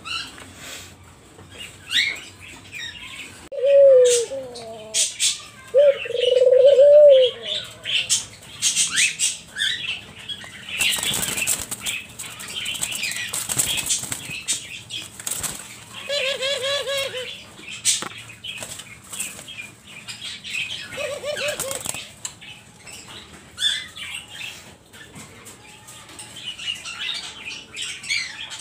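Doves cooing in short low calls several times, with a flurry of wing-flapping near the middle. Short high bird chirps come in throughout.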